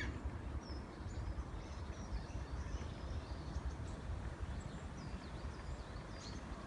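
Steady low rumble of outdoor background noise, with faint, scattered high bird chirps over it.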